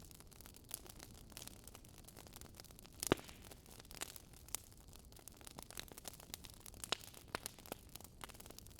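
Wood fire crackling, with irregular sharp pops and snaps scattered throughout and one louder pop a little after three seconds in.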